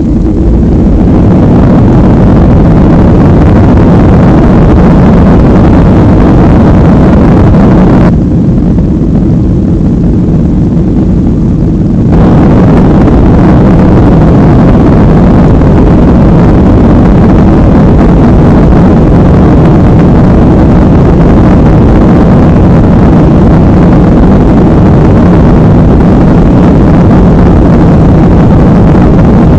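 Jet engine noise of a Boeing 737 heard inside the passenger cabin, swelling in the first second and then very loud and steady, as at takeoff thrust. About eight seconds in it turns duller and slightly quieter for roughly four seconds before returning.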